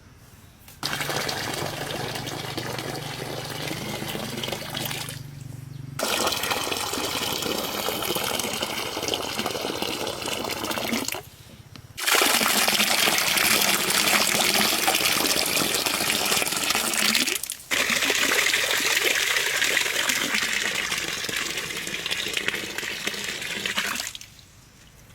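Water pouring and gushing in five stretches of a few seconds each, starting and stopping abruptly at each cut.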